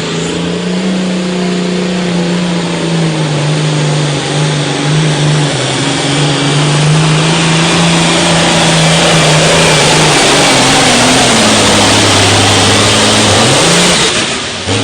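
A competition pulling vehicle's engine running hard under load during a pull. The note holds steady and high, sags lower about ten seconds in, rises briefly, then cuts off near the end.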